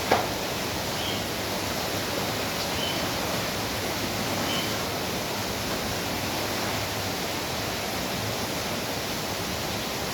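Steady rain falling, with one sharp tap right at the start and a few faint, short high chirps scattered through.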